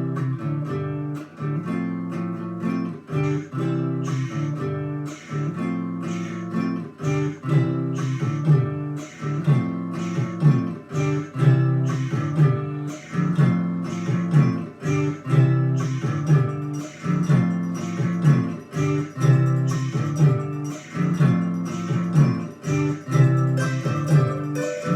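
Guitar strummed in a steady, even rhythm of chords, with no singing.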